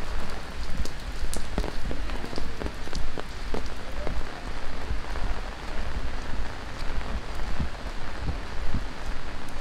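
Heavy monsoon rain falling steadily, with many sharp individual drops striking close by.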